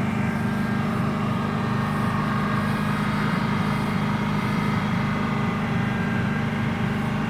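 Dodge Dakota engine running steadily at raised speed, held at about 3,000 rpm while a water mist is drawn into the open intake to steam-clean the catalytic converters.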